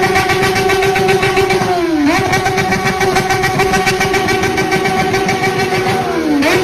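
Yamaha XJ6's 600 cc inline-four motorcycle engine held at high revs with a high-pitched scream. The throttle dips briefly about two seconds in and again near the end, and the revs snap back up each time.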